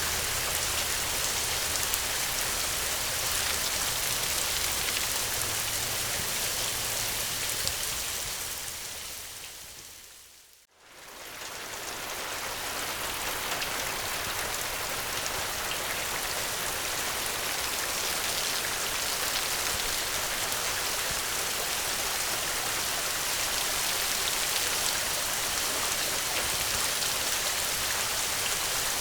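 Steady, heavy rain as a continuous hiss, which fades away to near silence about ten seconds in and swells back up within a couple of seconds, the dip of a loop join in the recording.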